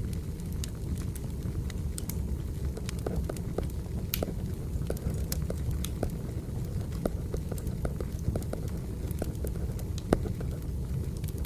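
Wood fire burning: a steady low rumble with irregular crackles and pops, and one sharper pop about ten seconds in.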